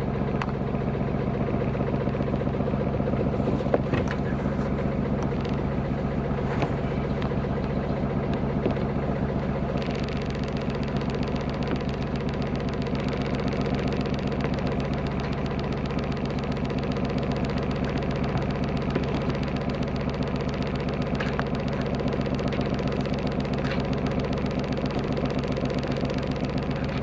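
Sailing yacht's auxiliary engine idling steadily.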